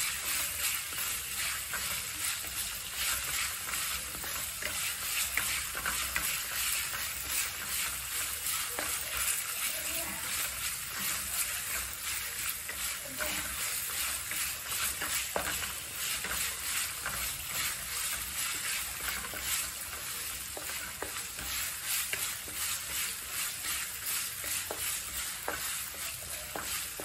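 Prahok ktiss paste frying in a metal wok with a steady sizzle, while a wooden spatula stirs it and scrapes against the pan in many short strokes.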